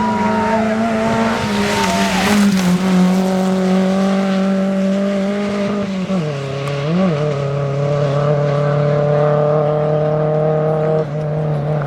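Rally car engine under way, its pitch held fairly steady and then dropping in steps twice, with a brief rev blip about seven seconds in.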